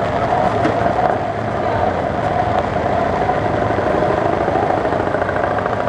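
Vehicle engines running steadily.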